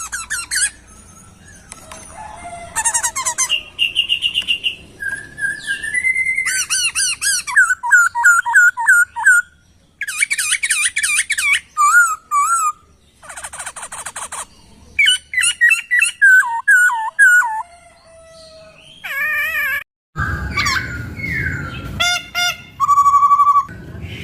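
Poksay (laughingthrush) singing a varied song of whistled notes, fast trills and rapidly repeated sweeping notes, in phrases with short gaps between them. About twenty seconds in there is a brief break, then a stretch with a low rumble under the song.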